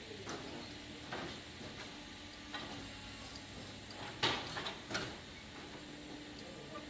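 Sawmill machinery running with a faint steady hiss and low hum, broken by several sharp knocks and clatters of timber, the loudest two a little past four and five seconds in.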